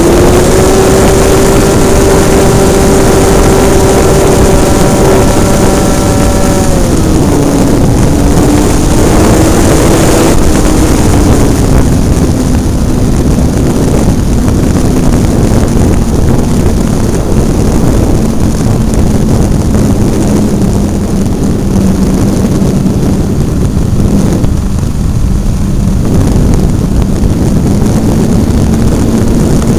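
Engine of a Hobbistar 60 radio-control airplane running in flight, heard from an on-board camera with heavy wind rush over the microphone. The engine note drops about seven seconds in, eases lower again a few seconds later, holds steady, and rises slightly near the end.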